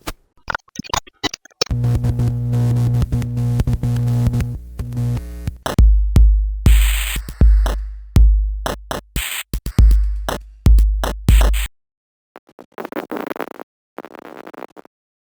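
Digital glitch sound effects: choppy, stuttering electronic bursts that cut in and out abruptly, with a run of repeated deep bass thumps in the middle, then short crackly static bursts near the end.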